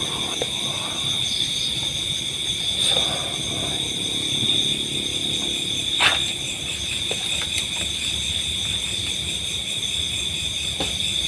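Night insect chorus, crickets trilling steadily at one high pitch, with a single sharp click about six seconds in.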